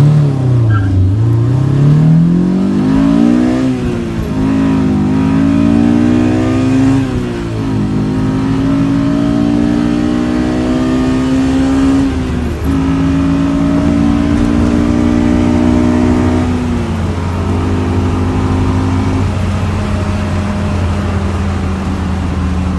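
Mazda RX-7 with a swapped-in Honda S2000 inline-four engine accelerating through the gears. The engine note climbs and drops back at each upshift, three times, then eases off to a steadier, lower note for the last several seconds.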